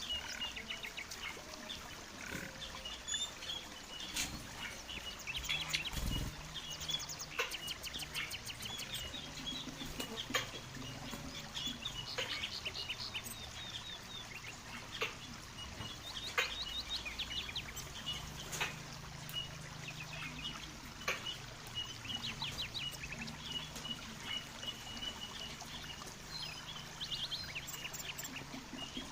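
Birds chirping again and again in short calls and quick rattling trills, with a few sharp clicks, over a low steady hum.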